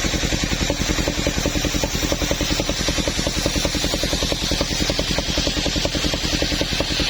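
The engine of a mobile sawmill running steadily, with a rapid, even beat and no change in speed.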